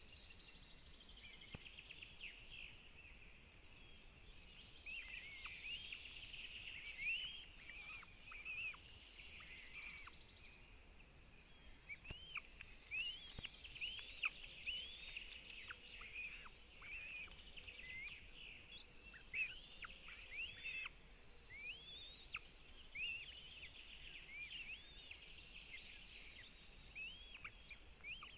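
Birds calling: a steady run of short, high, hooked chirps that rise and fall, over a faint steady hiss.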